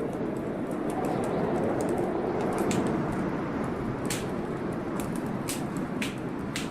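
Wood fire crackling, with a handful of sharp pops at irregular moments over a steady rush of storm rain.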